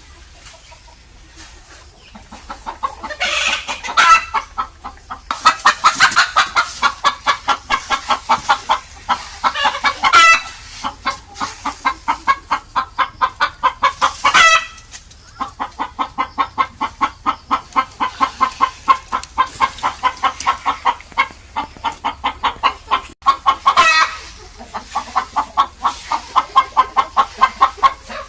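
Chickens clucking in a fast, steady run of short calls, broken every few seconds by a louder drawn-out call that falls in pitch.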